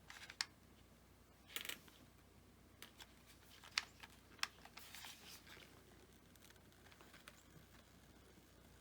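Faint handling noises of hot-gluing foam board: a few light clicks and short rustles in the first half, then near silence.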